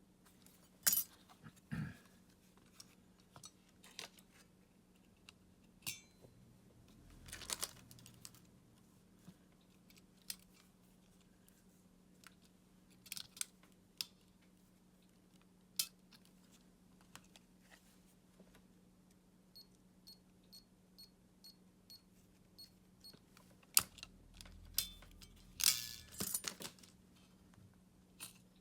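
Scattered clicks, taps and short scrapes of a remote control's plastic casing and parts being handled during repair, over a steady low hum. About two-thirds of the way through comes a run of faint, evenly spaced ticks, about two or three a second.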